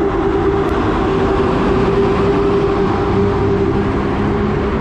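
Electric train pulling out, double-headed by an EP07 and an EU160 electric locomotive with a set of passenger coaches, running past loud and steady. A constant whine rides over the rolling noise.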